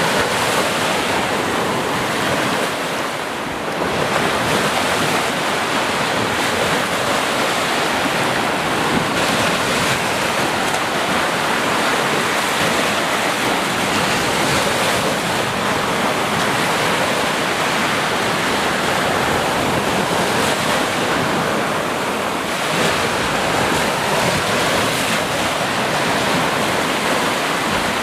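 Sea waves breaking and washing in, a continuous surf roar that swells and eases gently, with a brief lull about three seconds in.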